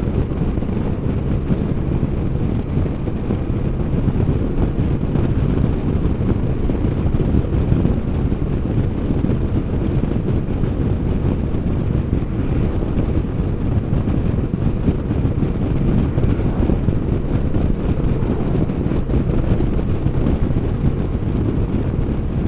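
Steady wind rush over the microphone on a moving Can-Am Spyder three-wheeled motorcycle, with the engine running under it.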